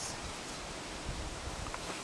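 Steady outdoor background noise, a faint even hiss with no distinct event.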